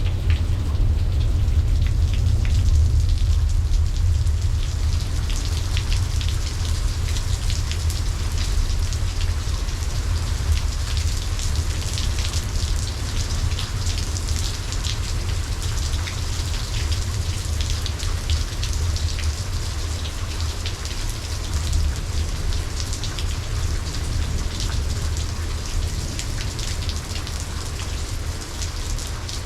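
Steady rain falling, with many small close drop hits, over a constant deep low rumble.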